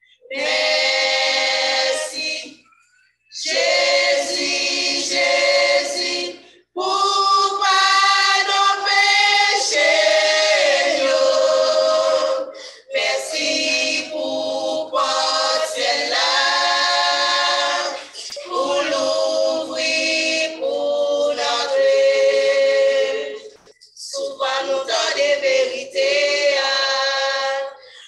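Gospel choir singing a hymn a cappella, in sustained phrases broken by short pauses.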